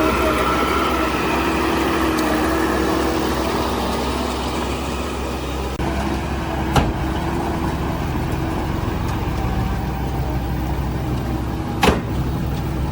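Heavy construction machine's diesel engine running steadily, with a faint whine over it in the first couple of seconds. Two sharp metallic knocks come about seven and twelve seconds in.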